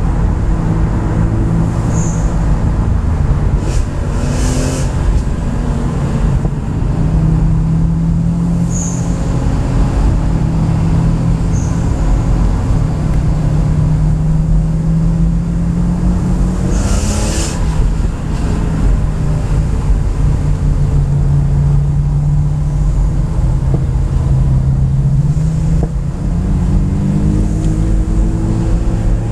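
BMW M3 engine heard from inside its own cabin under way on an open road, over steady tyre and road rumble. Its note climbs slowly under acceleration, drops sharply at a gear change about two-thirds of the way through, then climbs again. Two brief rushes of hiss come about a sixth of the way in and just before the gear change.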